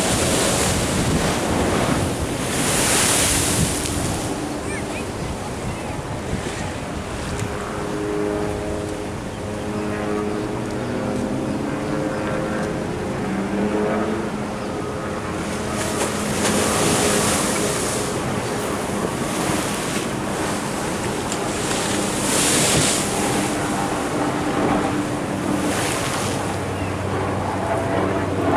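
Ocean waves washing in against a sea wall, with a steady surf hiss that swells into a louder wash about four times, plus some wind on the microphone.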